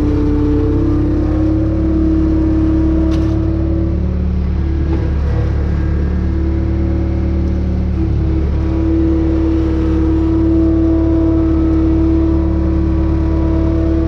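John Deere Gator utility vehicle's engine running steadily, its pitch shifting a little a few times as it drives, with a short sharp click about three seconds in.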